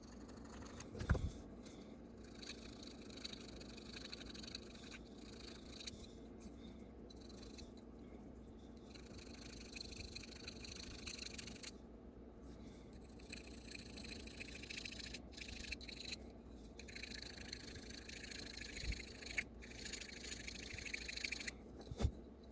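Faint scraping of a tool against a small diecast metal car body, in long stretches with short pauses, as casting flash is cleaned off the fenders and hood. A light knock about a second in and another near the end.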